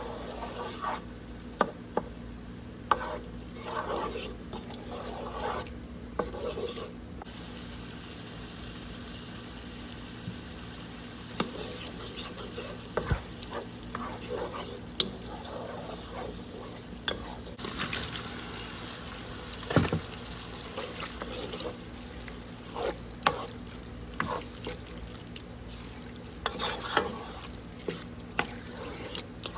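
Food sizzling in a pan while a utensil stirs it, with scattered knocks and scrapes of the utensil against the pan over a steady low hum.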